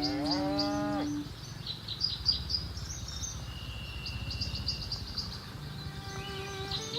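A cow mooing, one long call that rises in pitch and stops about a second in, with small birds chirping throughout.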